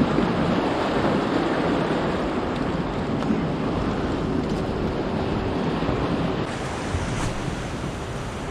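Ocean surf washing onto a sandy beach, with wind blowing steadily across the microphone.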